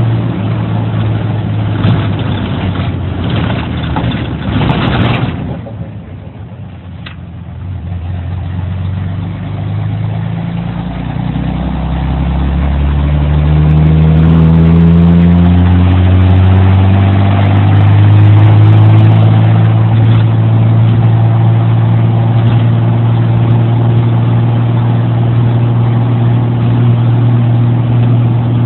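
Jeep Wrangler YJ's 4.0-litre inline-six with split headers, a Y-pipe and no muffler, running open-exhaust and loud. It is raspy and loud for the first few seconds, then drops to a quieter low note. It then climbs steadily in pitch for several seconds as it picks up revs and settles into a steady loud drone.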